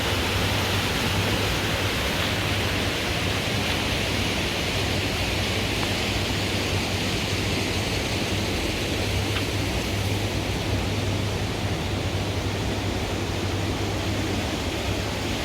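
Steady rush of water with a constant low machine hum underneath.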